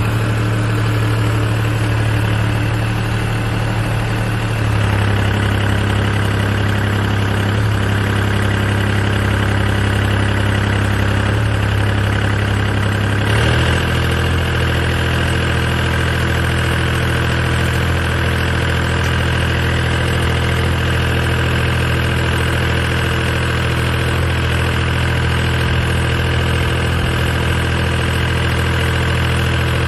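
Engine of a 2-ton mini hydraulic crawler excavator running steadily. Its note changes suddenly about five seconds in and again about thirteen seconds in.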